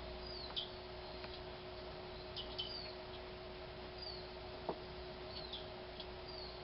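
Small birds chirping: short, high, falling chirps every second or so, over a steady low hum.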